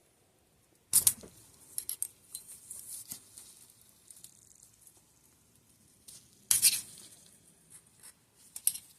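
Metal parts and hand tools clicking and clinking on a workbench while the eyelet bushings are worked out of a Fox DPS rear shock. Two sharp clacks stand out, about a second in and again around six and a half seconds, with lighter clicks and scraping between them and a quick run of clicks near the end.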